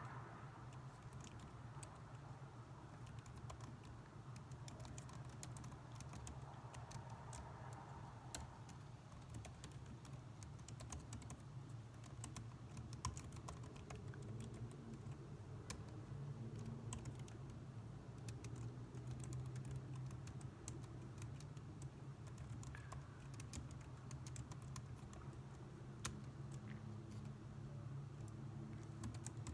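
Computer keyboard typing: a steady stream of irregular keystroke clicks over a steady low background hum.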